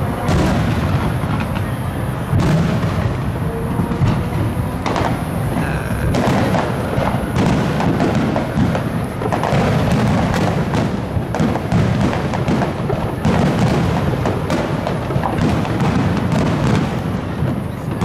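Aerial fireworks in a finale barrage: many shell bursts in quick succession, the bangs overlapping into a continuous low rumble with sharp cracks on top.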